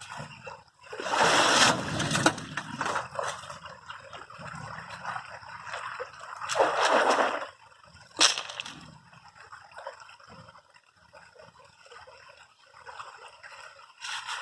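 River water splashing and gurgling, with two louder noisy surges about a second in and around six to seven seconds, and one sharp knock just after eight seconds.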